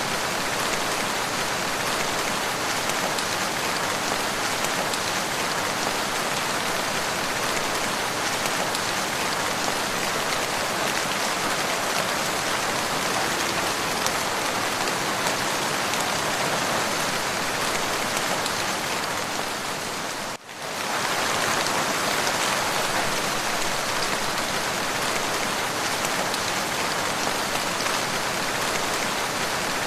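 Steady rain, an even hiss of many drops falling, with a brief dip in level about two-thirds of the way through before it carries on unchanged.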